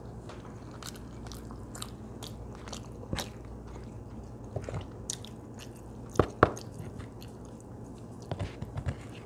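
Close-miked chewing of a soft bell pepper casserole: small wet mouth clicks and smacks, with a few sharper clicks around three, six and eight seconds in, over a steady low hum.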